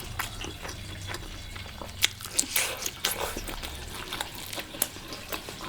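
A person chewing and biting food close to the microphone: scattered wet mouth clicks and small crunches at irregular intervals.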